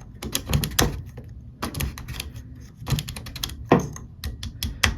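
Plastic drain-pump filter cap of a Samsung front-loading washer being screwed back in clockwise by hand: a run of irregular plastic clicks and knocks.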